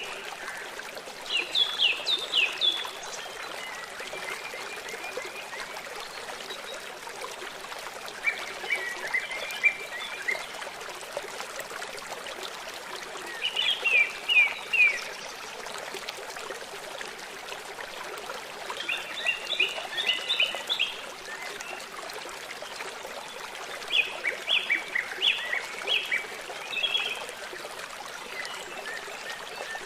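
A songbird singing short phrases of quick, high notes, about one phrase every five seconds, over a steady rush of running water from a stream.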